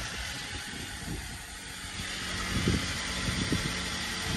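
A vehicle engine idling steadily, with a few low thumps between two and a half and three and a half seconds in.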